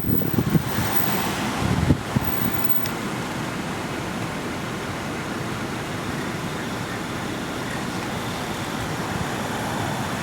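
Wind rushing over the microphone: gusty, low buffeting for the first couple of seconds, then a steady hiss.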